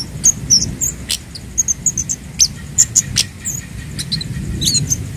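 Scarlet-headed flowerpecker (kemade, cabe Jawa) calling: a rapid, irregular run of short, very high, thin chips and tsips, over a low background rumble.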